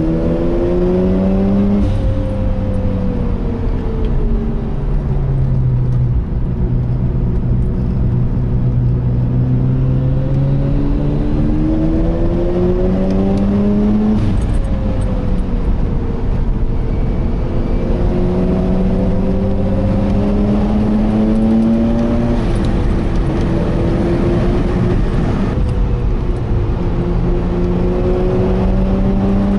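Turbocharged Mazda RX-8's twin-rotor Wankel engine, heard from inside the cabin on track. Its pitch climbs hard under acceleration and then falls away as it lifts off, about four times over.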